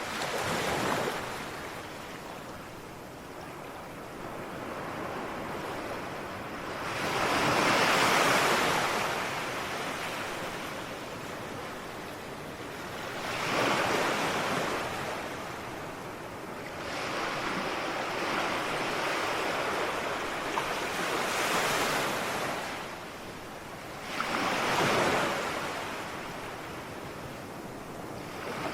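Ocean waves breaking and washing on a shore, in slow surges: louder swells about 7 s, 14 s and 25 s in, with a steady hiss of surf between them.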